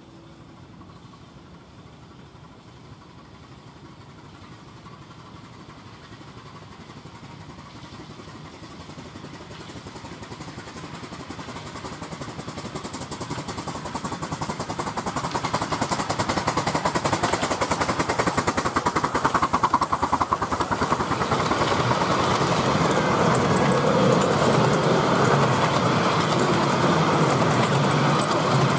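Miniature railway train approaching and passing. Its running noise grows steadily louder over the first fifteen seconds or so, then stays loud as the train runs close by.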